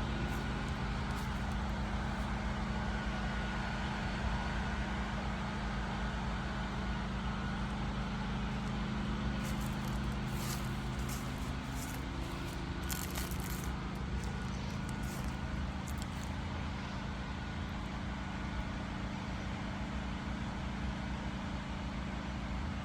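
Portable generator engine running steadily, a constant low hum with a few faint clicks about halfway through.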